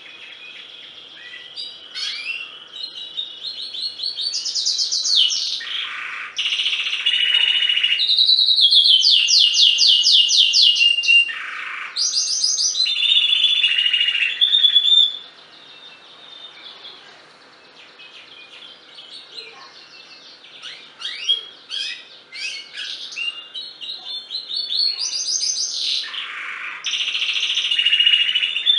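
Domestic canary singing in fast trills and rolling phrases. It is loudest in a long stretch from about four to fifteen seconds in, turns softer and more broken after that, and swells again near the end.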